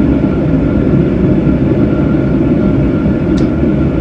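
Steady low rumbling noise, with one brief high squeak about three and a half seconds in.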